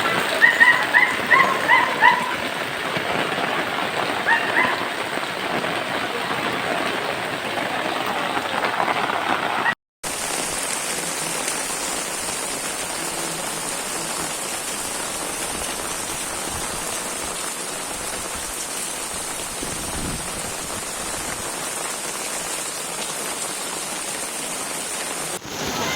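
Steady hiss of heavy rain and running floodwater. A few short high chirps sound in the first two seconds, and the sound cuts out briefly just before ten seconds in.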